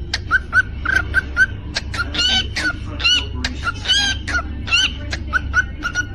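Cockatiel chirping and whistling: a quick run of short, even chirps, about four a second, broken in the middle by louder arching whistled notes that rise and fall, over a steady low hum.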